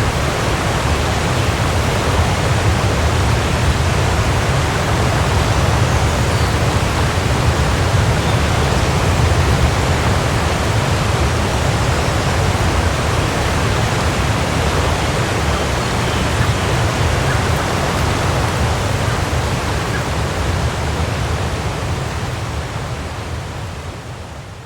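Waterfall: a steady, full rush of falling water with a deep low rumble, fading out over the last few seconds.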